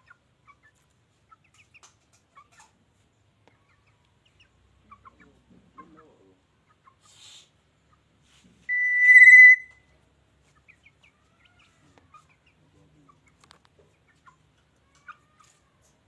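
A bird gives one loud, steady, high call about a second long near the middle, among faint scattered chirps.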